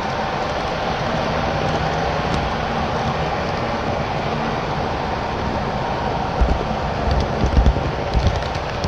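HO scale model train running on the layout: a steady mechanical whirring, with a few low bumps about six to eight seconds in.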